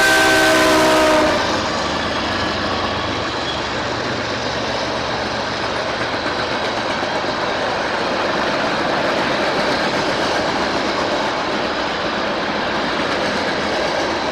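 A locomotive's air horn sounding a chord of several tones that cuts off about a second in, then the steady rolling noise of a train passing through the grade crossing.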